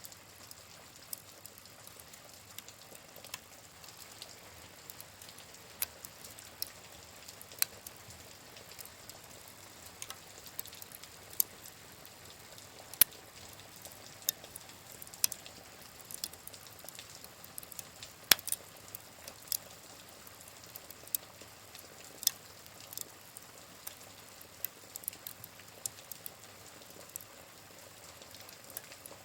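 Wood fire crackling in a fireplace, with sharp, irregular pops, a few much louder than the rest, over a steady hiss of rain.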